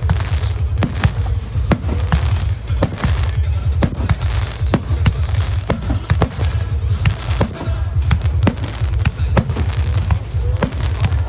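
Aerial firework shells bursting in quick succession: a dense run of sharp cracks and pops, several a second, over a steady low booming rumble.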